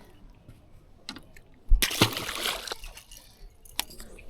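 A just-caught bass splashing at the water's surface once, about two seconds in, lasting under a second, with a short knock just before it.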